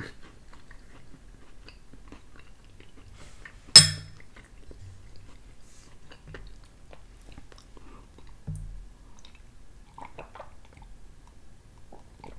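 Quiet chewing of a mouthful of chicken pot pie. About four seconds in comes a single loud, sharp clink of metal cutlery against the ceramic bowl, and a softer knock follows near nine seconds.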